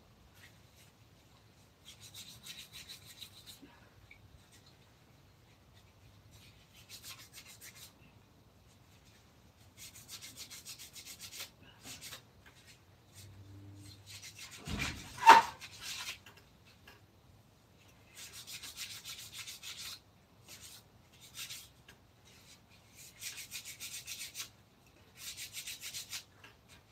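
Wood being abraded by hand on a carving: bursts of dry scraping strokes, each a second or two long, with short pauses between. About halfway through there is a single loud knock.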